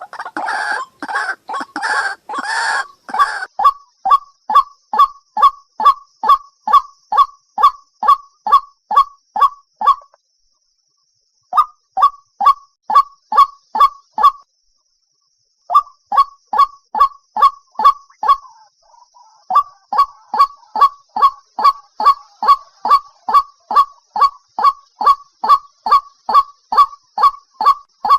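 White-breasted waterhen calling: a long run of identical short, sharp calls, a little over two a second, breaking off twice for a second or so. The first few seconds are harsher, rasping calls.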